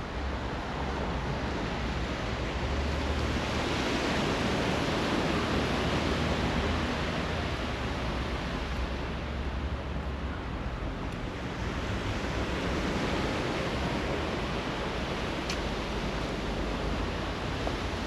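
Sea surf washing onto the beach: an even rushing that swells a few seconds in, falls back around the middle, then builds again.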